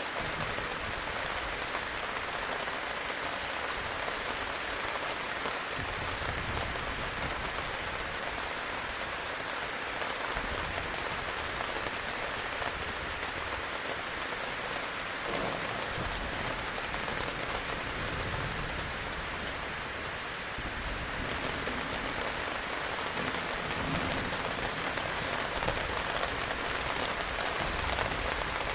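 Heavy rain falling steadily, an even hiss of drops, with a soft low rumble that comes and goes beneath it.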